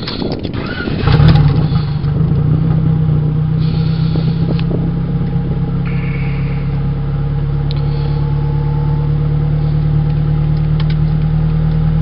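Turbocharged Honda four-cylinder engine cranked on the starter and catching about a second in with a brief flare of revs, then settling into a steady idle. The engine has low compression, 60–70 psi across the cylinders, which the owner puts down to a bad block and worn rings.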